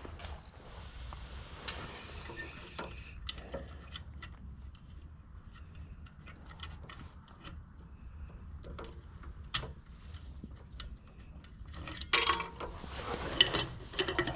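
Small metal clicks, taps and scraping from hands working a headlight bulb and its spring retaining clip, which will not seat and hold the bulb. The clicks come irregularly throughout, with a louder spell of rattling and scraping about twelve seconds in, over a low steady hum.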